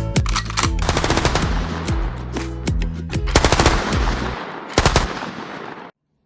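Rapid automatic gunfire, as a sound effect laid over music with a steady bass line, in several fast bursts. It fades and cuts off suddenly near the end.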